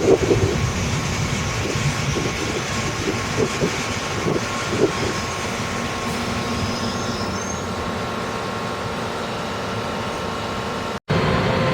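Electric multiple-unit train on the rails: wheels clacking over rail joints, the clacks spreading out over the first few seconds, then a steady running hum with a faint steady whine. The sound breaks off abruptly near the end.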